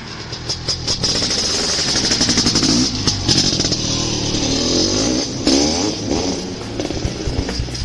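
Engine running and revving up and down, with its pitch rising and falling.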